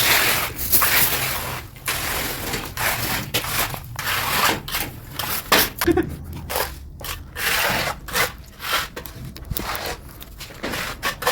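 Repeated rough scraping or rubbing strokes, one or two a second, irregular in spacing and loudness.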